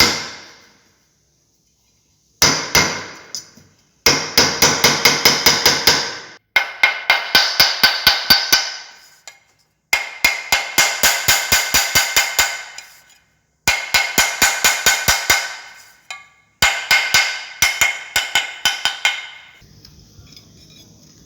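Rapid hammering on metal, each strike ringing, in several bursts of quick blows that start and stop abruptly.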